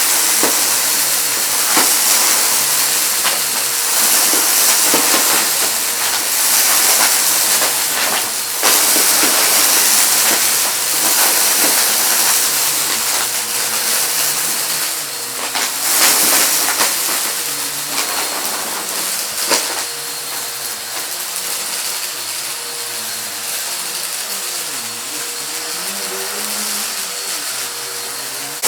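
Household vacuum cleaner running with a loud, steady hiss while it sucks up small hard debris, which rattles and clicks through it now and then.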